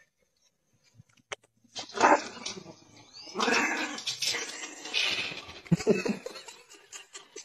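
A dog barking and growling in a series of loud bursts, starting about two seconds in.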